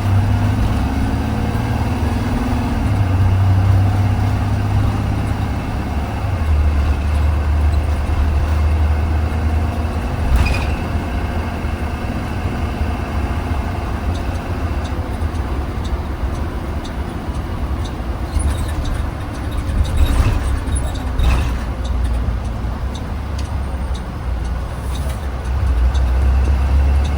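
2020 Blue Bird Vision school bus under way, heard from inside the cabin: a steady low engine drone with road noise, shifting in pitch a couple of times. Sharp knocks or rattles are heard about ten seconds in and twice more around twenty seconds in.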